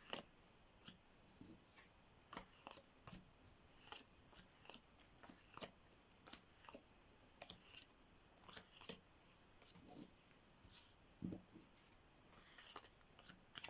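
Faint, irregular clicks and rustles of playing cards being handled and laid on a table.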